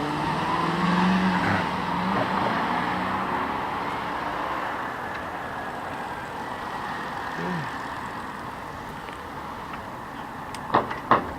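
A road vehicle passing by, loudest about a second in and then fading slowly away. Two sharp clicks come near the end.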